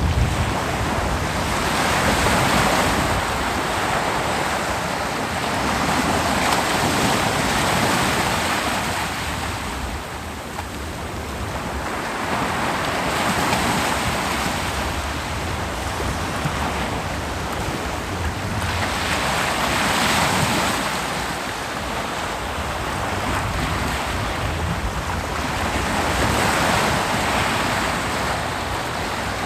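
Ocean surf breaking on a beach: a continuous rushing wash that swells and falls back about every five to six seconds, over a low rumble.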